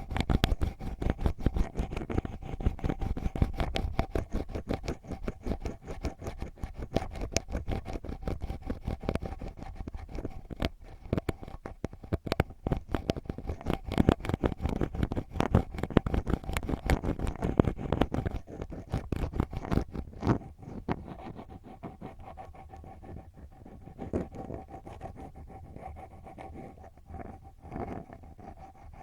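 Ear pick (mimikaki) scratching and scraping deep in an ear, close to the microphone, in fast, dense strokes. The strokes thin out and grow softer after about 20 seconds.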